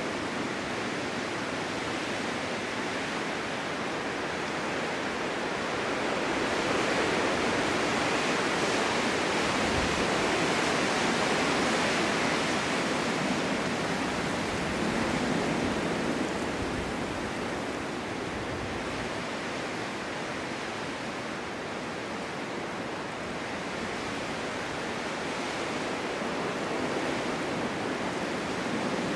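Snowstorm wind blowing steadily, swelling into a stronger gust in the first half and then easing back.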